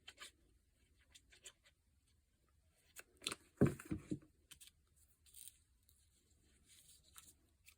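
Sparse, soft rustles and taps of paper cutouts being handled and glued on a tabletop, with a short louder cluster of handling noise about three and a half seconds in.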